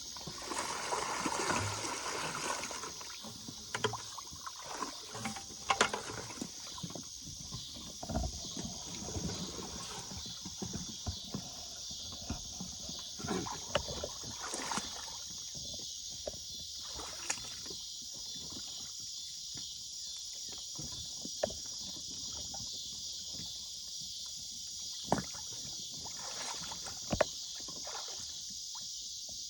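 Water splashing and sloshing in and around a swamped sit-on-top kayak, with scattered knocks, over a steady high hiss. The splashing is heaviest in the first few seconds.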